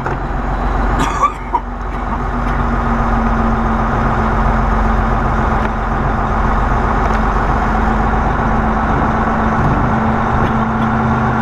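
Semi-truck diesel engine running steadily with an even hum, and a couple of short clicks about a second in.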